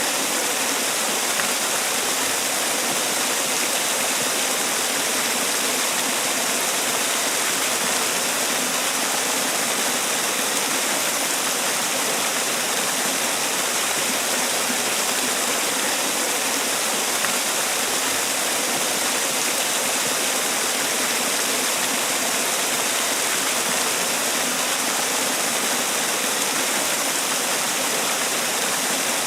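Man-made waterfall: water falling and splashing in a steady, even rush.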